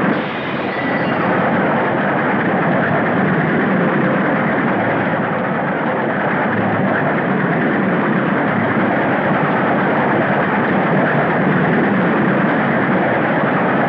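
Steam train running at speed: a loud, steady rushing din of wheels and wind.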